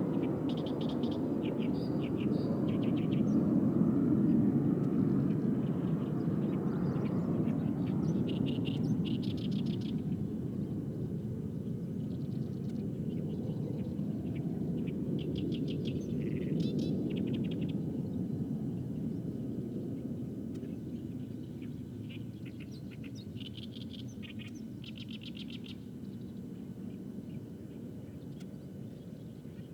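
Wild birds singing in short bursts of rapid, high repeated notes, several phrases spread through the stretch. Beneath them a low jet-aircraft rumble slowly fades away.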